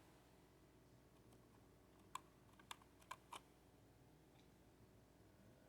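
Near silence with four faint, short clicks between about two and three and a half seconds in, from small handling of the makeup kit.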